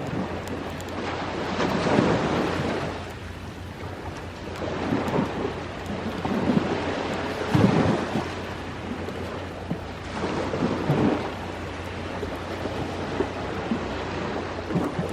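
Ocean waves breaking and washing up the shore, each surge swelling and fading about every three seconds, with the occasional small crackle of a campfire.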